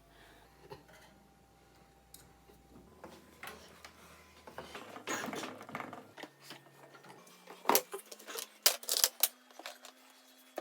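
Clicks, knocks and clattering of tools and parts being handled, with a short rustle about halfway through and a quick run of loud sharp taps near the end.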